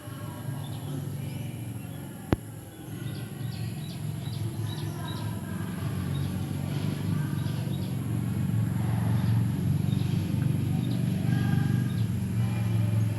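Birds chirping over a steady low engine hum that grows louder, with one sharp click a couple of seconds in.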